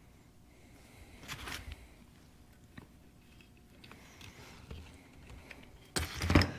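Handling of metal tools and injection-pump parts on a workbench: quiet scraping and light ticks, then a brief loud clatter of metal near the end.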